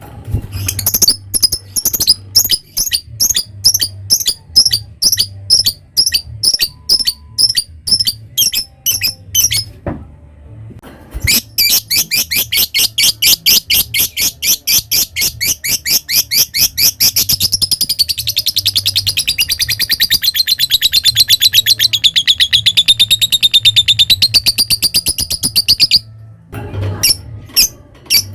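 Lovebird calling: a run of sharp, evenly spaced chirps about twice a second (the 'ngetik' typing call). After a short pause comes one long, very fast rattling trill of about fifteen seconds (the 'ngekek' chatter), which dips in pitch partway through. A few more short chirps come near the end.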